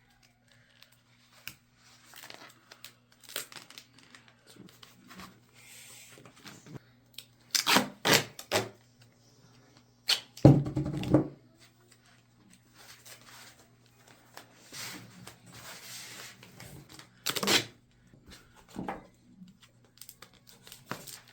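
Duct tape being pulled from the roll and ripped, with several short, loud tearing rips about 8, 11 and 17 seconds in, and quiet crinkling and rustling of tape being handled in between.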